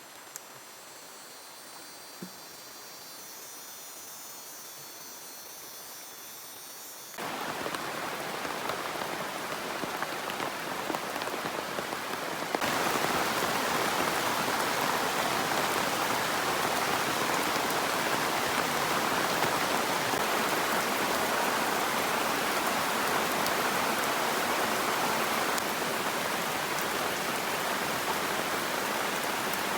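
Rain falling steadily, lighter at first with faint thin high tones above it, then suddenly much heavier about seven seconds in and heavier again a few seconds later.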